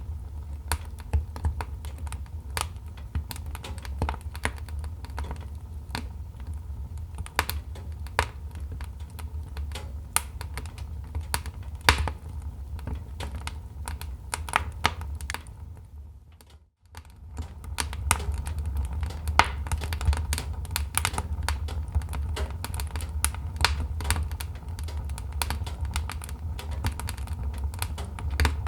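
Wood fire crackling in a fireplace: irregular sharp pops and snaps over a steady low rumble. The sound fades out briefly a little past halfway and comes back.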